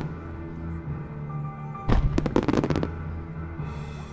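Aerial firework shells bursting: a quick run of sharp bangs and crackle lasting about a second, starting about two seconds in. Music with long held notes plays throughout.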